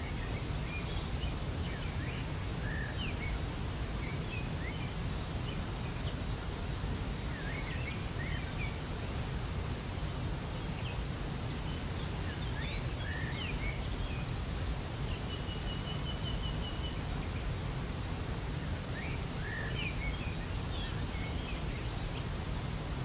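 Waterfall rushing steadily, with small birds chirping here and there over it and one short, even trill about two-thirds of the way through.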